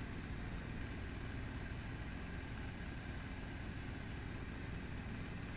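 Training helicopter running, a steady drone of engine and rotor without change.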